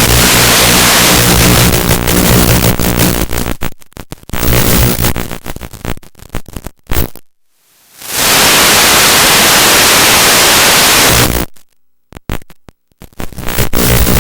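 Loud static hiss from an analog FPV video receiver's audio channel, with a low buzz in the first few seconds. It breaks up, cuts out briefly about halfway through, returns steady, then drops out again near the end.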